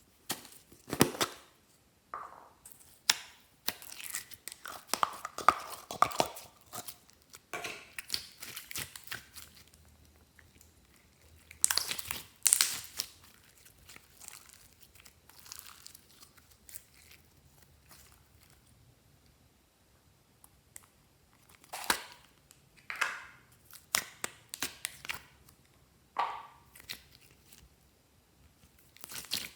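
Hands squishing and mixing glossy slime: irregular sticky crackles, clicks and crinkles, louder in a few bursts.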